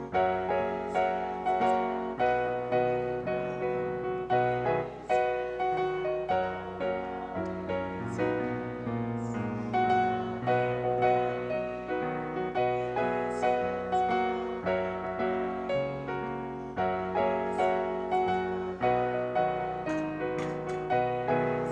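Piano playing a gentle piece, with notes and chords struck in turn and left to ring and fade.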